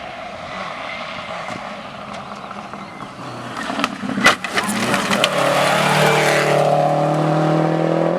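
Rally car coming through at full throttle. A few sharp cracks come about four seconds in, then the engine note turns loud and climbs steadily before shifting right at the end.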